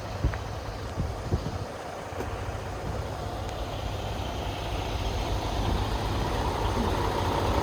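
Truck engine running at idle with a steady low rumble that grows gradually louder, with a few soft knocks in the first second and a half.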